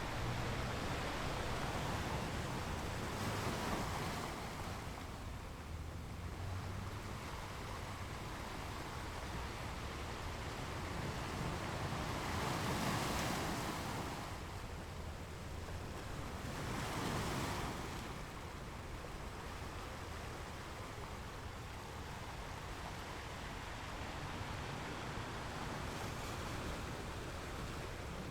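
Ocean waves washing up on a beach in a steady rush of surf, swelling louder three times as waves break: a few seconds in, around the middle and a little later.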